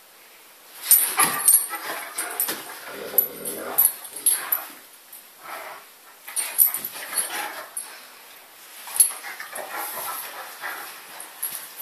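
Large dogs, a Leonberger, a Great Dane and a German bear dog, making short vocal and mouth noises in irregular bursts as they play and cuddle, starting about a second in.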